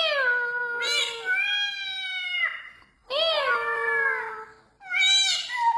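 Pet talking bird giving long, drawn-out meow-like cries, four in a row, each rising and then sagging in pitch.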